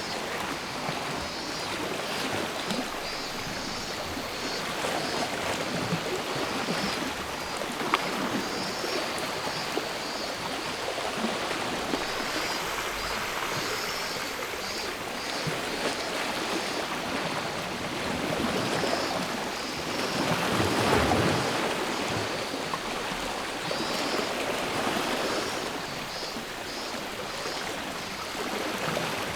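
Sea waves washing onto a shore, one wave swelling louder about two-thirds of the way through. Cicadas buzz in repeated pulsing phrases above the surf.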